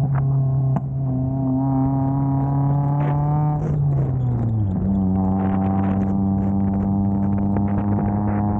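Honda D-series four-cylinder engine droning at steady revs while driving. Its pitch slides down over about a second near the middle, then holds steady at lower revs.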